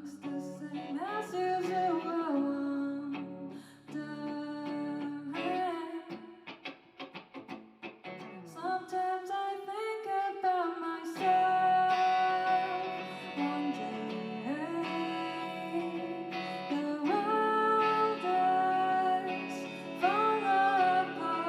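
Live band performance of a song: a sung melody over guitar, sparse for a few seconds in the middle, then the accompaniment grows fuller and louder about eleven seconds in.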